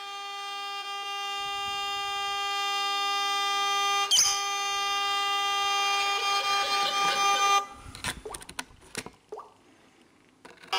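Vehicle horn held down in one long steady blast of nearly eight seconds, slowly getting louder, with a brief bird chirp about four seconds in. The horn cuts off, and a few knocks are followed by near silence.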